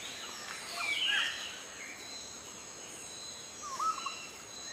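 Natural outdoor ambience: scattered short bird chirps over a faint background hiss, with steady high-pitched tones that run on underneath.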